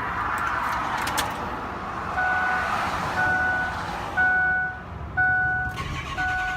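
Ford F-250 Super Duty's warning chime: an electronic beep sounding about once a second, each beep about half a second long, starting about two seconds in after some rustling and clicks.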